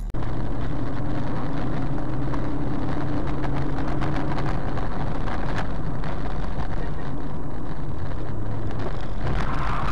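A car's engine running steadily with road and wind noise, heard from inside the moving car, with a low hum throughout. A louder rushing noise swells near the end.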